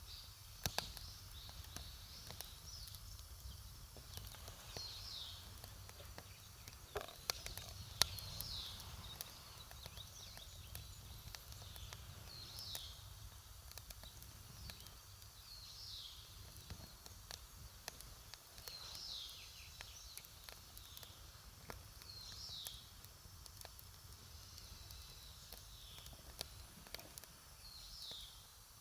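Wood campfire crackling with scattered sharp pops, the loudest about a second and eight seconds in. A bird repeats a short, falling call every two to three seconds over a low, steady rumble.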